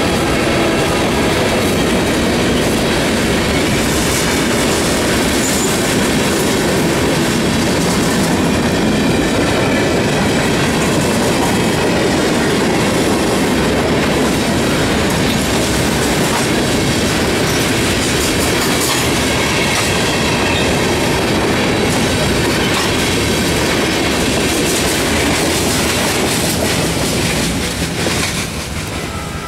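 A freight train's cars rolling over a grade crossing: a steady, loud rumble of steel wheels with clickety-clack over the rail joints. It drops off near the end as the last cars pass.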